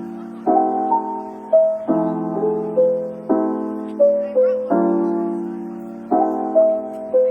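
Background piano music: slow chords struck about every second and a half with a simple melody over them, each note ringing and dying away.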